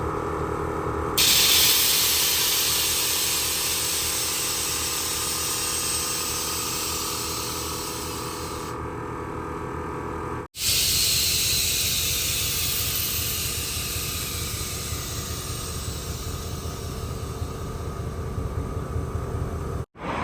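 Air-ride suspension on a bagged truck letting air out of its bags, a loud hiss that starts suddenly and slowly fades as the pressure drops, heard twice.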